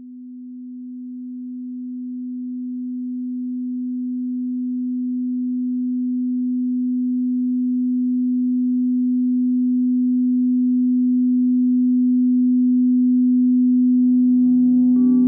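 A single steady electronic sine tone, low-pitched, fading in slowly and growing louder throughout. A little before the end, other steady tones, lower and higher, join in like the start of a drone.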